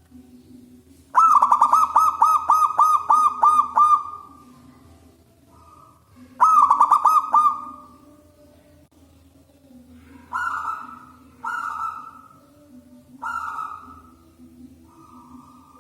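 Zebra dove (perkutut) cooing: a long, fast string of staccato coos begins about a second in and lasts roughly three seconds, a shorter string follows at about six and a half seconds, then a few short single coos come near the end.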